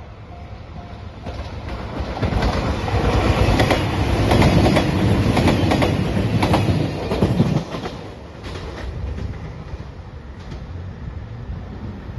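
A JR Shikoku 2700 series three-car diesel train passing a level crossing at speed, its wheels clattering over rail joints. The crossing's warning bell rings at first and is then drowned out. The passing sound swells and cuts down sharply about two-thirds of the way in as the last car goes by, leaving a fading rumble.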